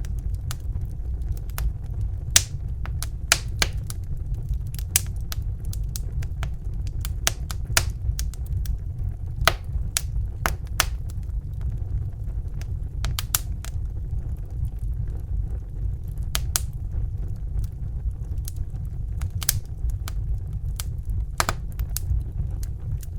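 Crackling fire: irregular sharp crackles and pops, several a second, over a steady low rumble.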